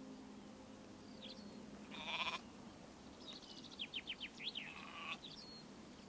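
A sheep bleats once, briefly, about two seconds in. Birdsong runs around it: a few high chirps early on and a quick run of chirps and trills in the second half.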